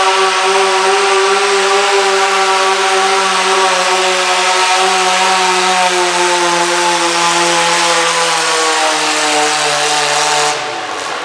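Modified pulling garden tractor's engine running flat out under the load of the pulling sled, its pitch sagging steadily as the revs are pulled down. Near the end the engine sound drops away suddenly.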